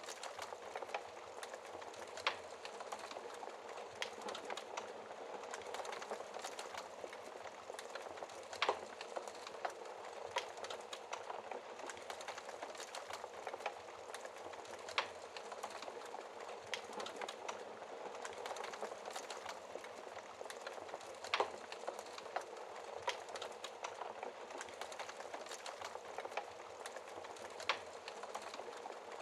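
Wood fire crackling in a fireplace: a steady dense crackle with frequent small snaps and a few sharper pops.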